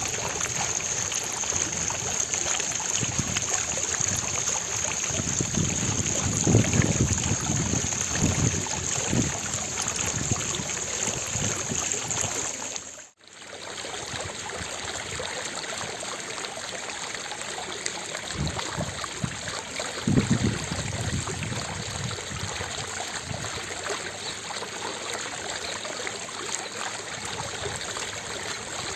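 Fountain water splashing and trickling steadily. It cuts out for a moment about halfway through, then carries on.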